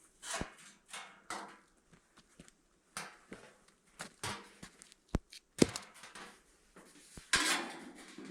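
Irregular knocks, clicks and rustling scrapes of things being handled, with a sharp knock about five and a half seconds in and a longer rustle near the end.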